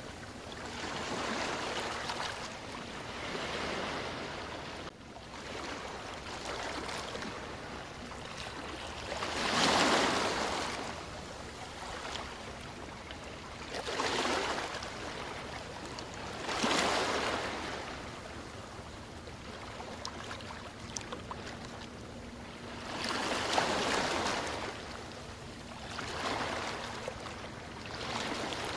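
Ocean waves washing in, each swell rising and falling over a second or two, coming every few seconds.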